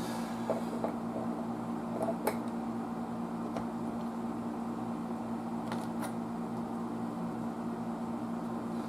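Steady mains-frequency electrical hum, with a few light clicks and taps scattered through it.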